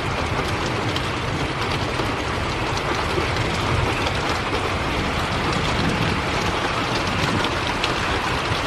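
Heavy thunderstorm rain falling steadily, with many sharp drop hits on nearby surfaces over a low, steady rumble.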